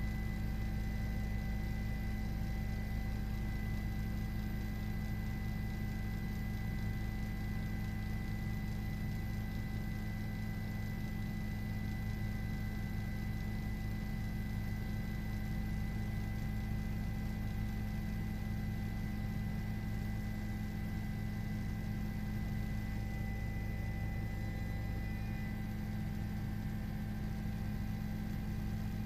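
Steady low hum with a few faint, thin high-pitched tones, unchanging throughout.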